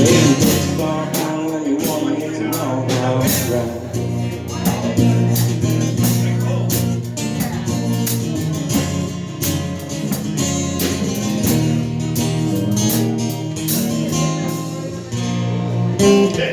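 Live band playing an instrumental passage led by guitar, over a steady drum beat.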